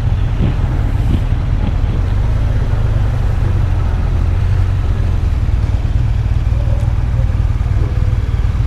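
Motorcycle running with a steady low rumble, mixed with wind noise on the rider's microphone.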